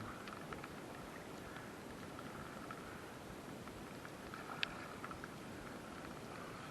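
Faint, steady rush of flowing river water around a kayak, with a few light clicks and one sharper tick about halfway through.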